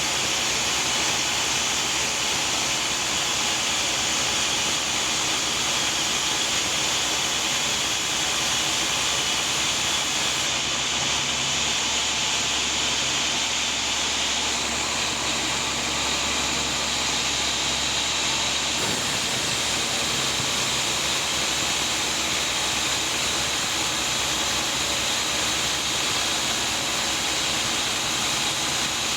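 Sawmill saw running steadily through a large teak log, a continuous dense mechanical noise; its tone shifts for a stretch from about ten to nineteen seconds in.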